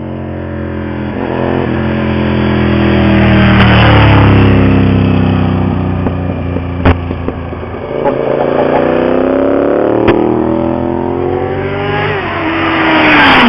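Car engines revving hard as cars drive past at speed. One loud pass-by comes about four seconds in, then an engine climbs in pitch as it accelerates, with sharp cracks about seven and ten seconds in, and another loud pass near the end where the pitch drops away.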